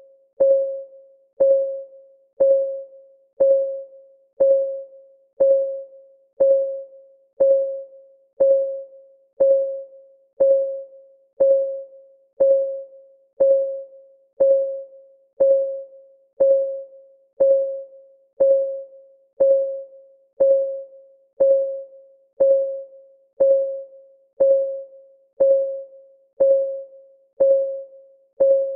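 Countdown timer's clock ticking sound: a steady tick about once a second, each tick a short, clear note that dies away quickly.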